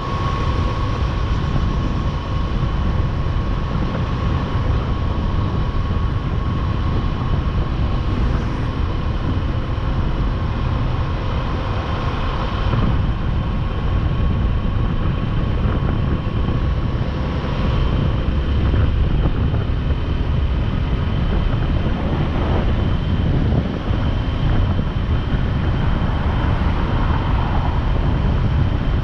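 Motorcycle riding at speed: the engine runs steadily under heavy wind rushing over the microphone.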